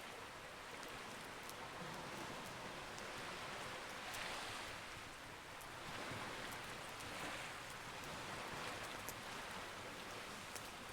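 Campfire crackling, with scattered sharp little pops, over a steady wash of sea waves that swells and eases every couple of seconds.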